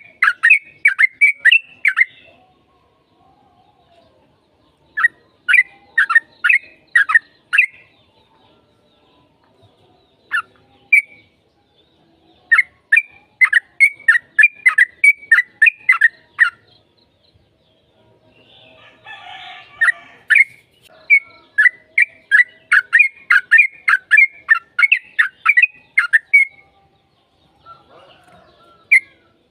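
Yellow-vented bulbul singing in phrases of quick, repeated notes, about four or five a second, each phrase lasting a few seconds with pauses between. The longest phrase runs about six seconds in the second half. This is the long-phrased song used as a lure to make other bulbuls call back.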